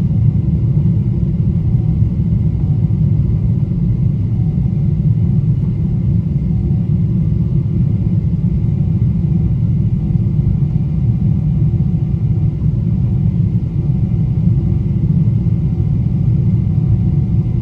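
Boeing 777-200 jet engines running at steady high power after takeoff: a loud, even low rumble with faint steady whine tones above it.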